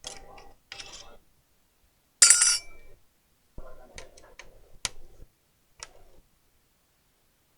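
Small tools and laptop parts handled on a workbench: scattered clicks and clinks, with one loud, bright clatter about two seconds in.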